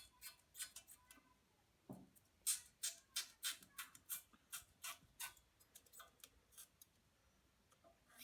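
A run of sharp, light clicks from hand tools working on bolts, about three a second through the middle, with one dull knock about two seconds in.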